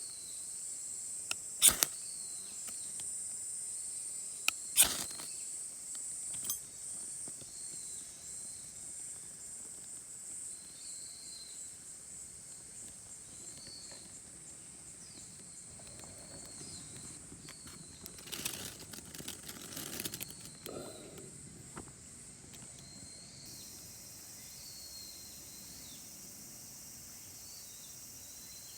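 Summer forest ambience: a steady high insect drone with a short chirp repeating every second or two. A couple of sharp clicks come in the first few seconds, and a burst of rustling and handling comes about two-thirds of the way through.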